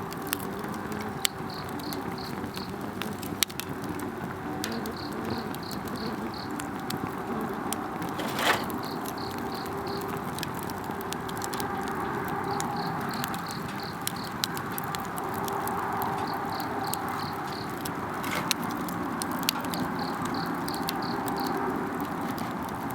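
Wood campfire crackling, with scattered clicks and one sharper pop about eight and a half seconds in. An insect chirps in short pulsed bursts that repeat every two to three seconds.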